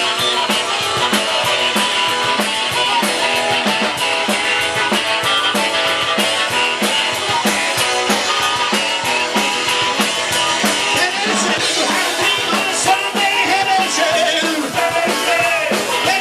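Live rock and roll band playing, with a drum kit keeping a steady beat of about two strokes a second under electric guitar.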